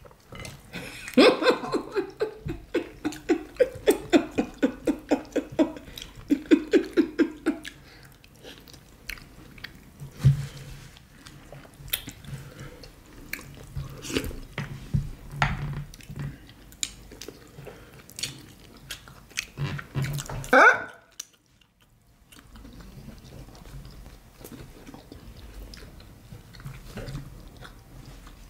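Close-up eating sounds of people chewing and smacking on fufu and banga soup with meat. Fast, rhythmic chewing at about four strokes a second for the first several seconds, then softer, scattered wet mouth clicks, with one short, louder rising sound about twenty seconds in.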